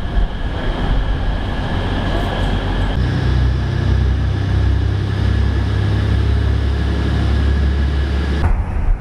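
Hull Trains passenger train at the platform, its engines running with a steady low rumble that swells about three seconds in and cuts off suddenly near the end.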